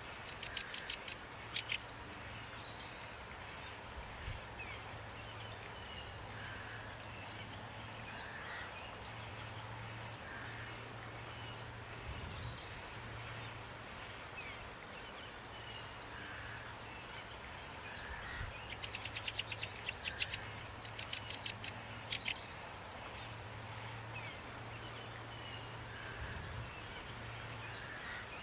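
Songbirds singing over a steady hiss of rain, with quick high chirps and falling notes throughout. A fast buzzy trill comes near the start and again about two-thirds of the way through.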